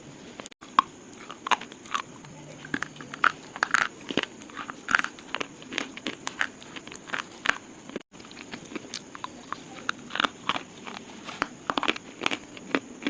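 Slate pieces crunching and cracking in a quick, irregular run of sharp snaps, several a second.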